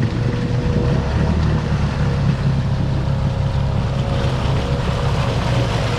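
ATV engine running steadily, with a thin whine held above the engine note.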